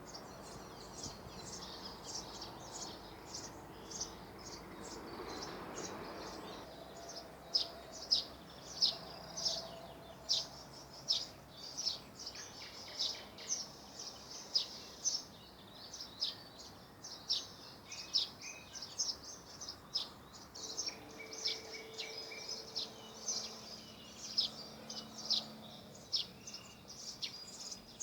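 Forest birds chirping: short, high calls repeated about twice a second throughout, over a soft outdoor background, with a brief rush of noise a few seconds in.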